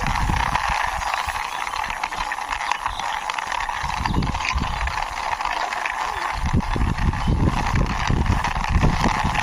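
A plastic toy police jeep is pushed along by hand, its wheels rolling and rattling steadily. Low knocks and rumbles from handling the toy come about four seconds in and again from about six and a half seconds.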